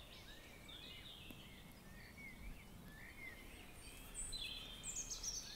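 Faint birdsong: many short chirping notes, with a run of higher, falling whistled notes from about four seconds in.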